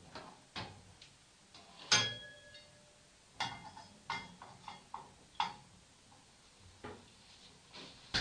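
Irregular sharp knocks and clicks in a small room, about eight of them. The loudest, about two seconds in, has a short metallic ring like a clink. The recorder takes these for knocking from the neighbours above.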